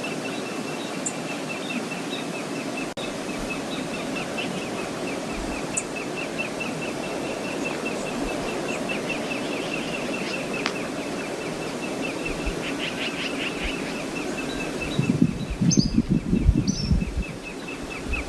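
Steady rush of the river and waterfall at Brooks Falls, with a small bird repeating a rapid series of high, even chirps over it. From about fifteen seconds in, strong wind gusts buffet the microphone with loud low thumps.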